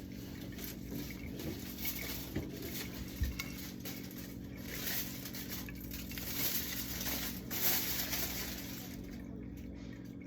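Water running and splashing, swelling and easing, with a steady low hum underneath and a single soft knock about three seconds in.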